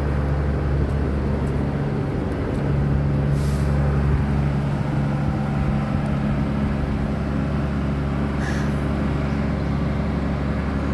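Steady low rumble of a vehicle's engine and road noise, with two brief hisses, about three and a half and eight and a half seconds in.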